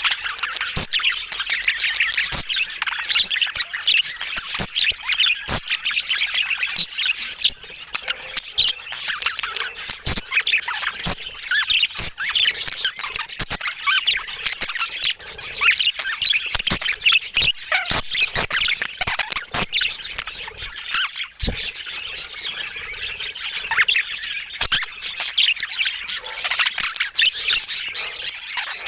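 Budgerigars chattering: a dense, unbroken run of short chirps and warbling calls, with frequent sharp clicks.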